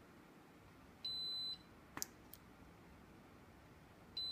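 Studio strobe flash head giving a high, steady electronic beep of about half a second, twice, about three seconds apart, with a faint click between them.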